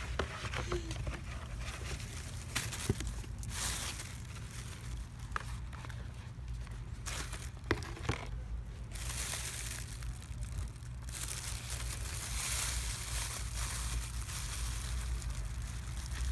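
Rustling and crinkling from handling, likely a box being worked as a bird is coaxed in, with a few sharp clicks and a steady low rumble underneath.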